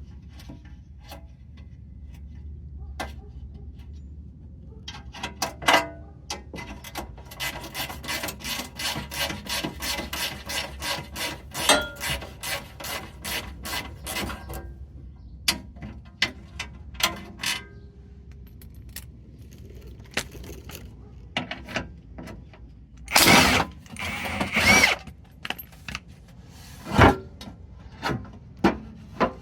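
Ratcheting wrench clicking quickly, about five clicks a second, as it works a 15 mm skid-plate bolt. Near the end come a few louder metal scrapes and a knock.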